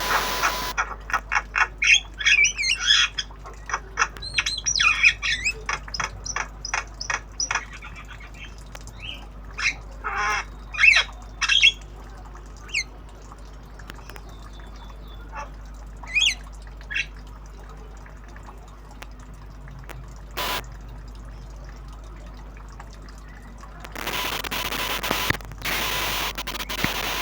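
Javan myna practising its calls: a quick run of squawks, chirps and clicks for the first dozen seconds, then only scattered calls. Near the end a loud hissing noise with a steady tone covers it.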